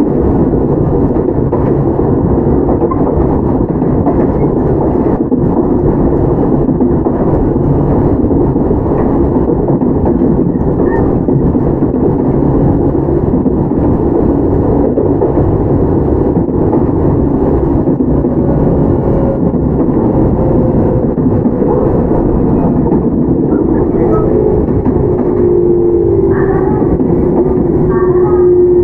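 Running sound of a Toyama Chiho Railway 17480-series electric train, a field-chopper-controlled ex-Tokyu 8090 car, moving along the line. It is a steady, loud rumble of wheels on rail with faint tones that slowly shift in pitch. A clearer tone comes in near the end.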